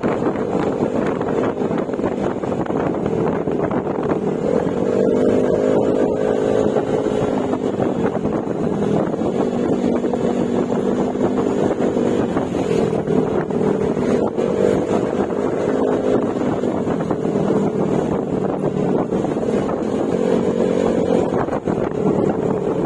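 Yamaha Mio Gravis scooter's 125 cc single-cylinder engine running at road speed through an aftermarket Akrapovic exhaust with silencer. The engine note rises about five seconds in, then eases off and picks up again several times as the throttle changes.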